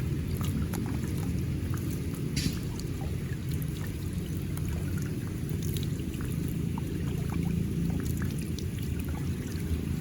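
Water flowing and splashing in a pool's outflow channel: a steady low rush with scattered small splashes and drips.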